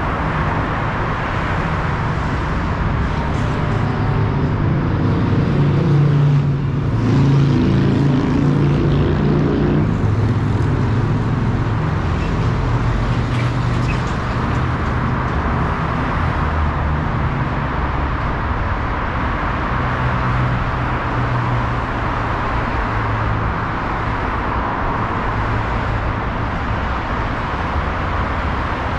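Steady road traffic from multi-lane city roads, with the engine of a heavier vehicle swelling and fading a few seconds in.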